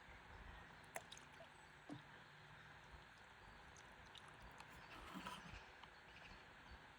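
Near silence: faint river-trip ambience with a few soft clicks about one and two seconds in, and a brief slightly louder sound a little after five seconds.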